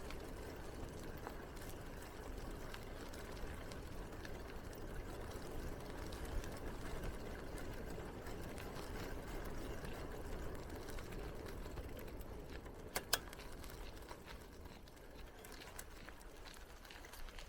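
Steady rolling noise of a bicycle ride, the tyres running over the path, with a low rumble of wind on the microphone. A couple of sharp clicks come about 13 seconds in.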